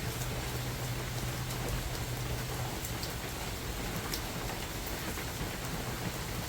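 Steady rain falling in a spring forest, a dense even patter with scattered single drops ticking close by. A low steady hum underneath fades out about three seconds in.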